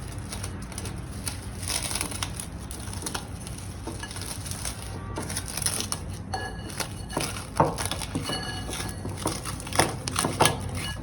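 Hands deflating and kneading risen yeast dough in a bowl: irregular soft rubbing and squashing with small knocks against the bowl.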